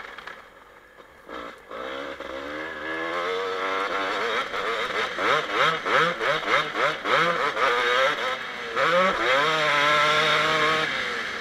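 2007 Kawasaki KX250 two-stroke motocross engine revving hard. It is quieter for the first second or so, then climbs in pitch and pulses up and down about three times a second under on-off throttle. Near the end it holds a steady high rev, then drops away.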